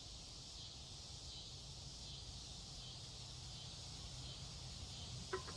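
Quiet outdoor ambience: steady insect chirring with a low rumble underneath. Near the end comes one light clink with a short ring.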